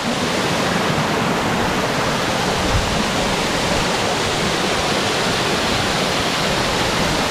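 Waipoo Falls: falling water rushing steadily. It grows louder right at the start, then holds even.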